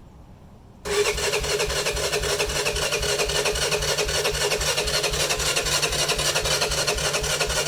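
ATV engine cranking on its electric starter without catching, starting about a second in and stopping near the end: a steady starter whine over about four even compression pulses a second. It is a cold start, and the owner takes the failure to fire as the engine wanting fuel.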